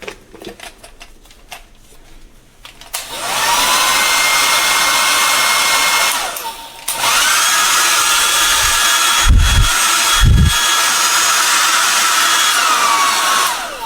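Conair 1600 W wall-mount hair dryer switched on: its motor whines up in pitch and blows steadily. It cuts out briefly, comes back on with a higher whine, then winds down near the end. Two low thumps come in the middle.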